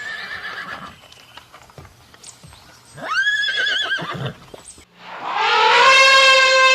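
A horse whinnying once about three seconds in, a wavering call that rises and then falls. After it, from about five seconds, a loud, steady pitched tone with many overtones comes in and holds.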